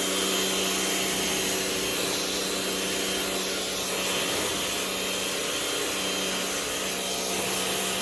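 Rock&Rocker HWY12 high pressure washer running steadily, its motor humming under the hiss of the water spray.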